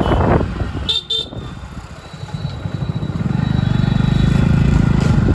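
Road traffic: two short vehicle horn toots about a second in, then an engine running with an even pulsing beat that gets louder from about three seconds.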